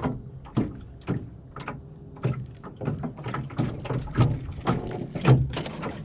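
A just-caught small catfish flopping and knocking against the jon boat as it is unhooked: irregular thumps, about a dozen in six seconds.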